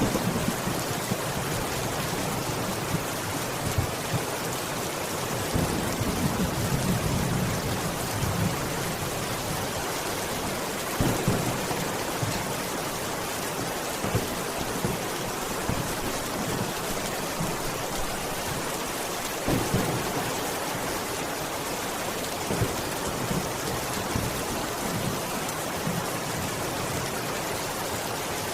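Steady heavy rain pattering, with low rumbles of thunder swelling and fading now and then.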